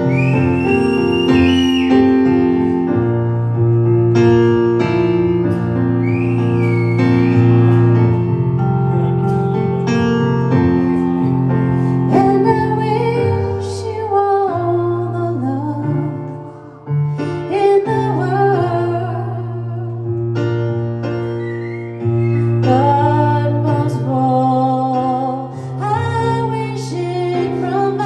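A solo voice singing a slow ballad over sustained piano chords, with long held notes and vibrato.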